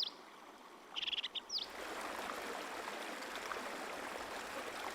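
A bird gives a short burst of chirps about a second in. Then a steady rush of running water, like a small stream.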